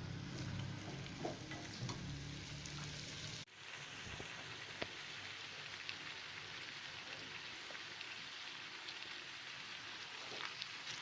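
Chicken sizzling in oil in a pan, a steady frying hiss with a few light clicks of a stirring spoon. A low hum under it in the first few seconds cuts off abruptly.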